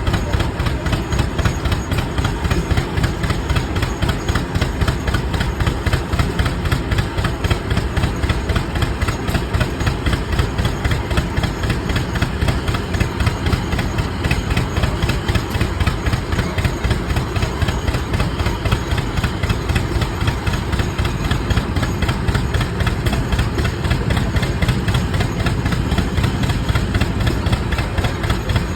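Antique Rumely OilPull tractors' slow two-cylinder engines running belted to a sawmill, with a steady, even exhaust beat.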